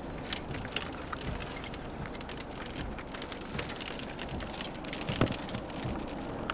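Rain striking the vehicle: scattered, irregular sharp ticks of drops over a steady rushing noise, with one louder knock about five seconds in.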